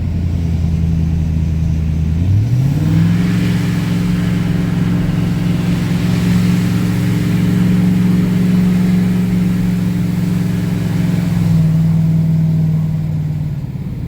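Truck engine towing a loaded trailer uphill: the revs jump sharply about two seconds in, hold high while it climbs, and ease off near the end.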